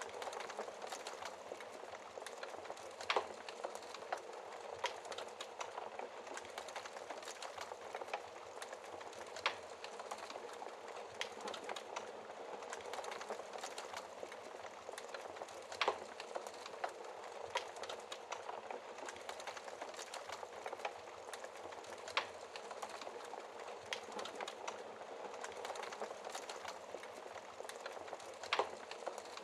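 Wood fire crackling steadily in a fireplace, a constant fine crackle with occasional sharper pops.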